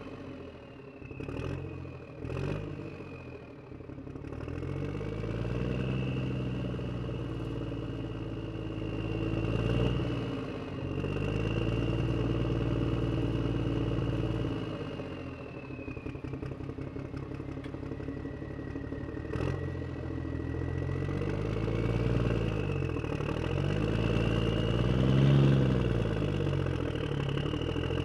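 Toy JCB loader and dump truck running, an engine-like motor sound whose pitch rises and falls again and again over a steady high whine, with a couple of sharp clacks in the first few seconds.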